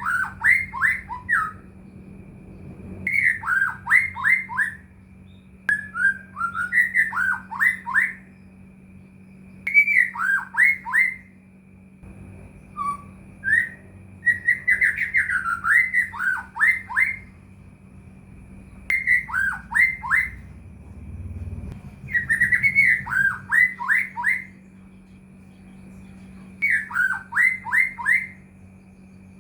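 White-rumped shama (murai batu) singing: short phrases of quick, downward-sliding whistles, repeated every few seconds, over a faint steady hum.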